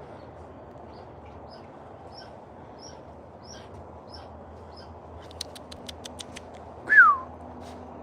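Small birds chirping: short high chirps repeated about twice a second, then a quick run of sharp ticking calls. Near the end comes one loud whistle that slides down in pitch, over a steady background hiss.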